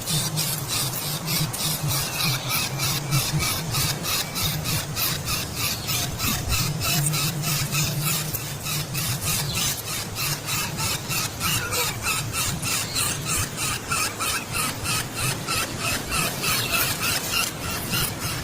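A rapid, even series of short squeaky animal calls, about four to five a second, over a steady low hum.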